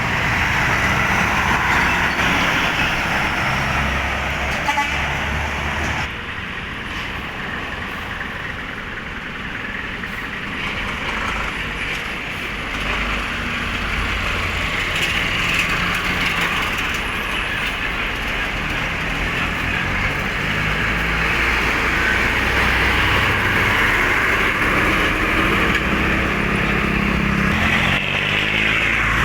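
Road traffic passing close by: cargo trucks and other vehicles, with engine rumble and tyre noise. The traffic eases a little about six seconds in, then builds again.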